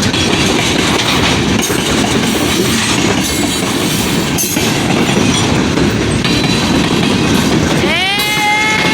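De Queen and Eastern Railroad train passing close by, a loud steady rumble with wheels clicking over the rail joints. About eight seconds in, a locomotive air horn starts up, several tones sliding up together and then holding.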